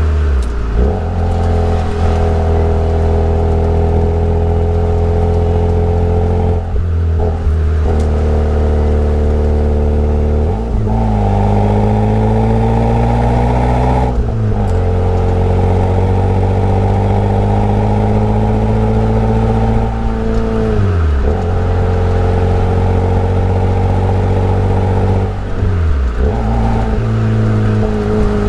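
Daihatsu Copen L880K's 660 cc turbocharged four-cylinder engine and exhaust under load, the pitch holding or climbing with revs and then dropping sharply about four times at gear changes or lift-offs.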